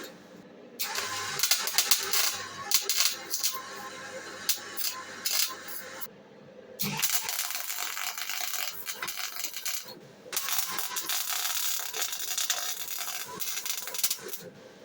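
Hand work on metal parts: stretches of scraping and rattling with many metallic clicks, stopping briefly about six and ten seconds in.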